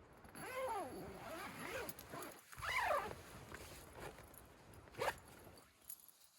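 A zipper pulled open or shut in two long strokes, each a run of rising and falling rasping sweeps, followed by a single sharp click near the end.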